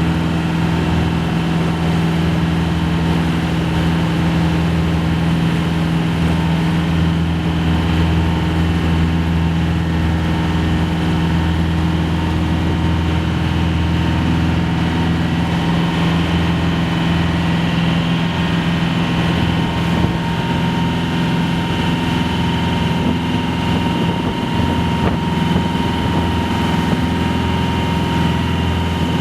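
Small ferry boat's engine running steadily: an even, deep hum with a few thin, steady higher tones above it.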